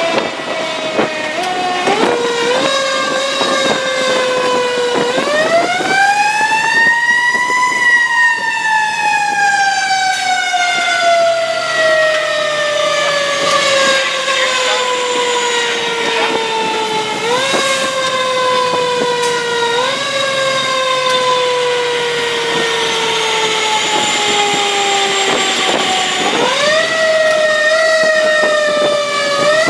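Fire engine's mechanical siren winding up to a high pitch, then coasting slowly down for many seconds with a few short boosts, and winding up again near the end.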